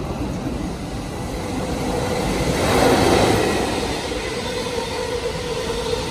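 Electric train running at the station platform: wheel and track rumble swells to its loudest about three seconds in, then settles, with a steady whine that carries on.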